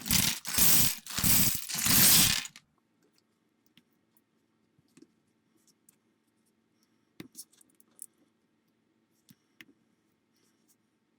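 Small plastic building-block pieces rattling and tumbling in four loud bursts over the first two and a half seconds. Then faint scattered clicks of pieces being handled and pressed together.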